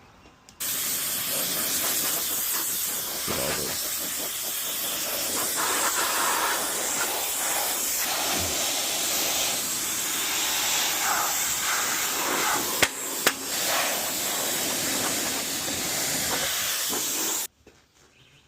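A steady, loud spraying hiss, as used for cleaning dust off a motorcycle. It starts suddenly, runs for about seventeen seconds and cuts off abruptly, with two sharp clicks about two-thirds of the way through.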